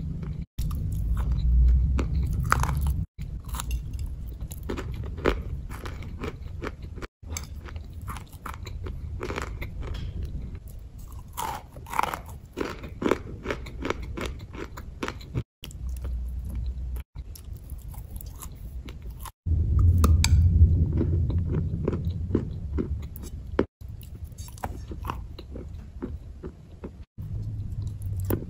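Close-miked biting and chewing of hard, crunchy grey chunks: many sharp crunches and crumbling mouth sounds, broken by several sudden brief silences where the recording is cut.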